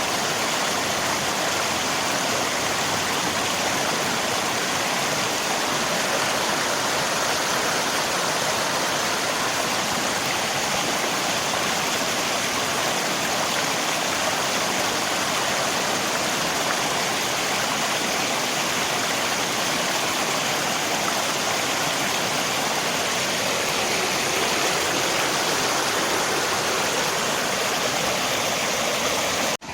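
Rain and river water rushing in a steady, even hiss. It cuts off abruptly at the very end.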